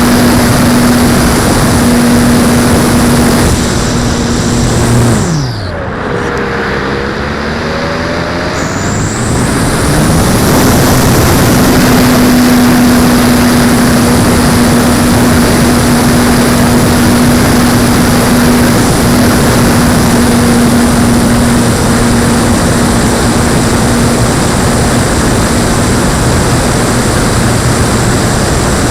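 Electric motor and propeller of a HobbyZone Apprentice S 15e RC plane, a steady hum under heavy wind rush. About five seconds in the throttle is cut and the pitch falls away, then a few seconds later it rises back to a steady hum.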